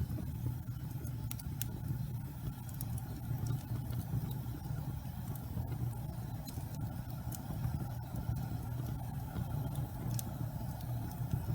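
Wood fire burning in a fireplace: a steady low rumble of flame with irregular sharp crackles and pops.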